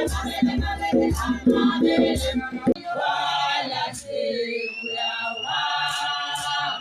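Music with a group of voices singing together. A low beat runs under the voices until a little under three seconds in, then drops out, leaving the voices alone.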